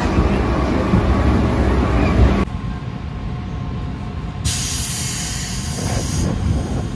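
Rumble of a JR 211 series electric train running at speed, heard from inside the car. It cuts off abruptly about two and a half seconds in, leaving the quieter hum of the train standing at a platform. About halfway through there is a hiss lasting roughly two seconds.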